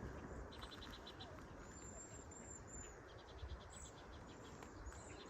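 Faint pondside ambience: short repeated trains of high, quick chirps, about eight pulses each, likely insects calling. A brief higher chirp comes around two seconds in, all over a low steady rumble.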